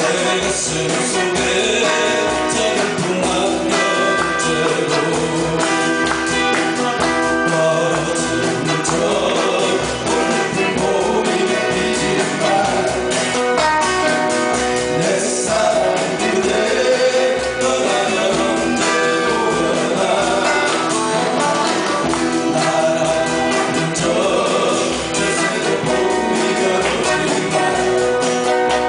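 Live band performance: a singer over guitars, bass and drums, with a steady beat.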